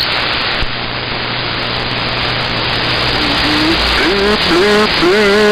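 CB radio receiver hiss: steady static on an open channel. From about three seconds in, a wavering pitched tone with overtones comes through the static, wobbling up and down before settling near the end.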